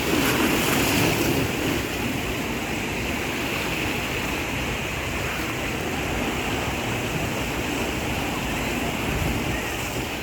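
Steady rush of ocean surf and moving water, a little louder in the first second or so.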